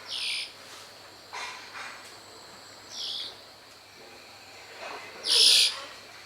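A wild bird giving short, harsh, buzzy calls, three of them clearly, the last the loudest, with a few fainter calls in between.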